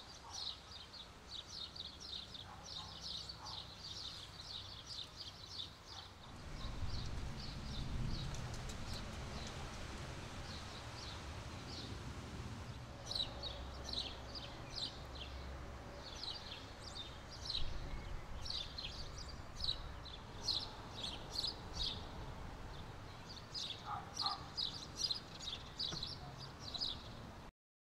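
Small birds chirping in quick, repeated calls over a low, steady rumble that sets in about six seconds in. The sound cuts off abruptly near the end.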